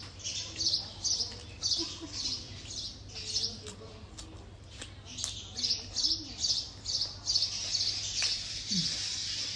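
High-pitched chirping repeated about twice a second, merging into a continuous trill about eight seconds in, with faint voices underneath.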